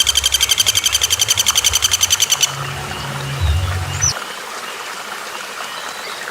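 A bird's rapid, loud trill of about a dozen notes a second, cutting off about two and a half seconds in, followed by faint chirps and a brief whistle, over a low steady hum.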